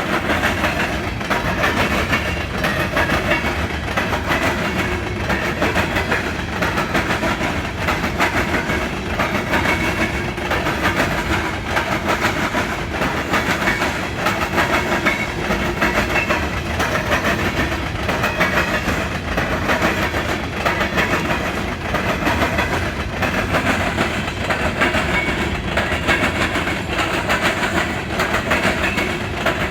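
Wheels of empty coal hopper cars hammering across a railroad diamond crossing, a loud, fast, regular clatter of metal impacts that runs on without pause as the freight train rolls through.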